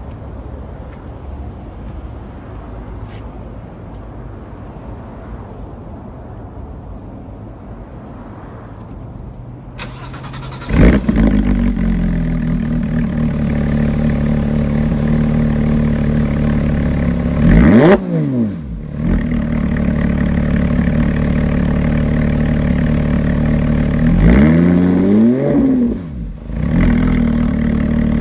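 Porsche 911 GT3 RS flat-six on a cold start. After about ten seconds of faint background noise, the engine fires up loudly and settles into a steady idle. It is blipped twice, the revs rising and falling quickly around two-thirds of the way through and again near the end.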